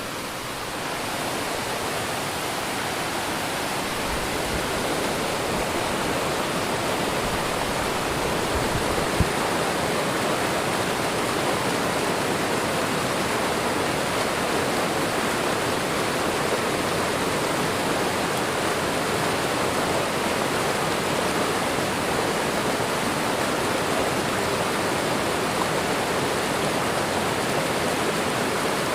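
Waterfall and running water: a steady, even rush. It is a little softer at the start and builds back over the first few seconds, with one brief click about nine seconds in.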